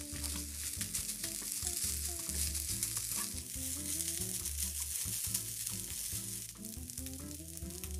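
Fried rice sizzling in a nonstick pan while a spatula scrapes, stirs and tosses it, with a steady high sizzle and repeated short scrapes. Background music with a bass line plays underneath.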